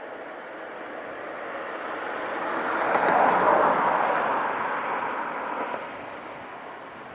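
PKP EP07 electric locomotive with a passenger train going by: a rushing rumble that swells to its loudest about three and a half seconds in, then fades away by about six seconds.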